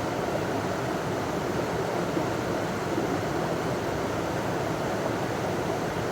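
A river running over a small waterfall: a steady, even rush of water.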